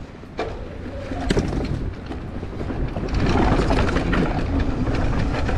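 Wind rushing over the microphone while a mountain e-bike rolls down a dirt trail, its tyres rumbling and frame and parts knocking and rattling over bumps. The rush grows louder about halfway through as speed picks up.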